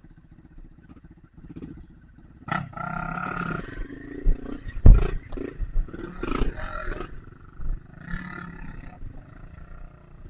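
Off-road motorcycle engine revving in several short bursts, with sharp knocks in between, the loudest about five seconds in.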